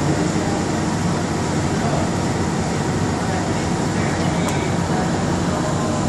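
Steady hum and rumble inside a Bombardier Innovia APM100 people-mover car, with its air conditioning running.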